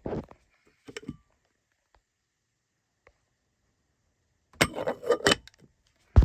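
Handling noise from a burr coffee grinder's parts: short bouts of clicking and rattling, the busiest a bit past the middle, and one sharp click near the end. The motor is not running.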